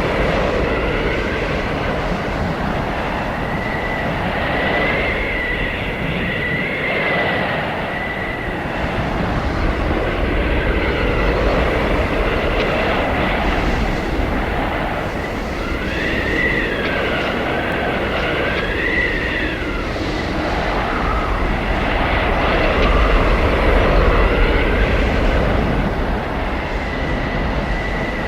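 Howling blizzard wind: a steady, rushing roar that swells and eases, with high whistling howls rising and falling in pitch, most clearly about five seconds in and again midway through.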